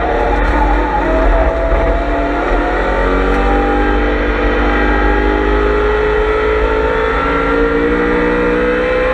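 On-board sound of a BMW M3 E92's V8 under hard acceleration on track. The engine note drops at an upshift about two seconds in, then climbs steadily through the next gear.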